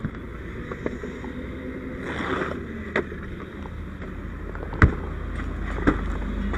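A vehicle engine running steadily, with a few sharp knocks over it. The loudest knock comes about five seconds in.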